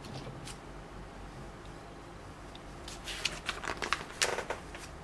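Plastic LEGO pieces clicking and rattling as they are handled and picked through, in a cluster of small clicks from about three seconds in after a quiet stretch.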